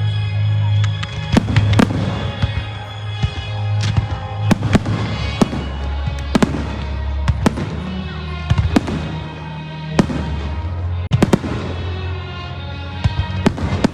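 Fireworks bursting overhead, a rapid run of sharp bangs and cracks at irregular intervals, with a cluster of several close together about eleven seconds in, over the display's accompanying music with its sustained low notes.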